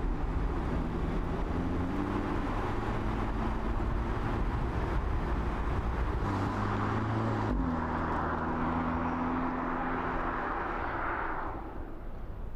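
Audi S3 Cabriolet's turbocharged four-cylinder engine running at speed under steady road and wind noise, its tone stepping to a new pitch a few times.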